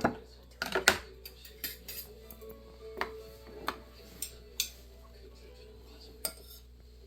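Utensils clinking and tapping against dishes, a handful of sharp irregular clinks with the loudest two just before a second in.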